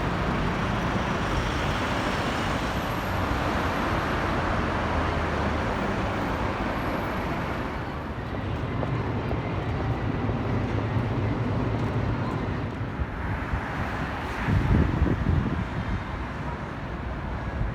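City street traffic: passing cars with steady engine and tyre noise. There is a louder low rumble briefly, about fifteen seconds in.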